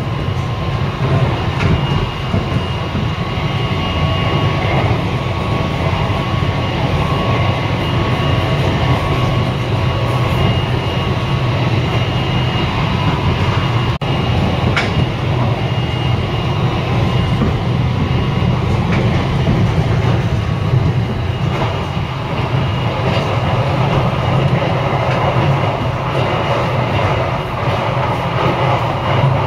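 Inside a JR Kyushu Sonic limited express electric train running at speed: a steady rumble of the car on the rails, with faint thin whines that come and go and an odd brief click.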